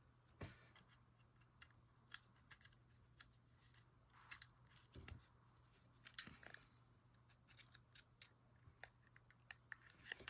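Faint, scattered small clicks and scrapes of fishing-reel parts being handled and fitted together, a little louder about half a second in and again around four to six seconds.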